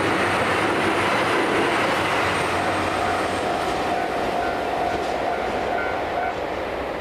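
Diesel train passing over the line close by, the noise of its wheels and engine loud at first and dying away steadily as it moves off.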